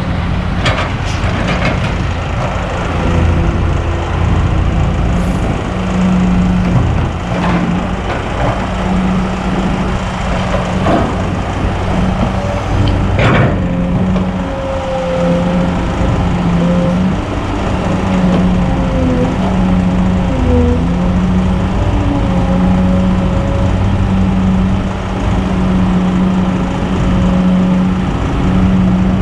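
Kobelco SK200 hydraulic excavator's diesel engine running steadily as it works, with a few sharp knocks and clanks and a wavering whine through much of the second half.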